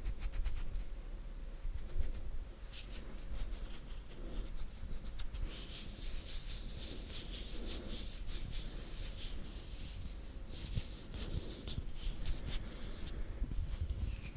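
Bare hands rubbing and brushing against each other close to a sensitive microphone: a soft, dry swishing of skin on skin, with a run of small crisp ticks in the first few seconds.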